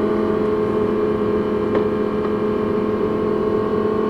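Audi R8's V10 engine heard from inside the cabin, running at steady revs with an even, unchanging pitch.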